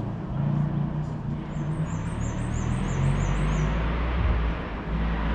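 A car engine running at a steady low pitch. Over it, a bird gives a quick run of about seven high chirps for about two seconds.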